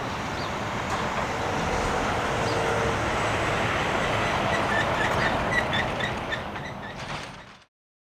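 Sounder commuter train rolling out: steel wheels running over the rails with a steady rumble and a run of short high squeals and clicks in the middle, then fading and cutting off to silence near the end.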